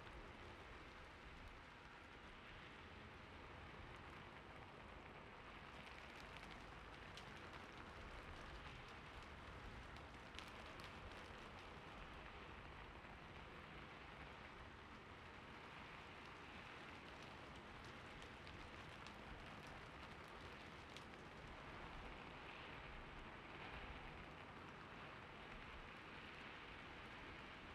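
Faint, steady rain ambience, with a few scattered soft clicks.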